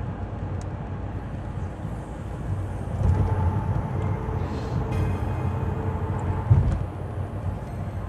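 Steady road and engine noise heard inside a moving car, with a short low thump about six and a half seconds in.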